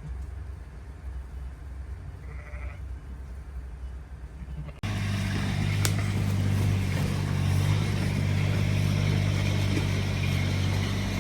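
A faint low engine rumble with a brief animal call about two seconds in, then a sudden cut to a louder, steady engine drone.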